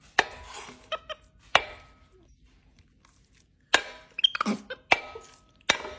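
Knife chopping food: five sharp chops at uneven intervals, each with a brief ring.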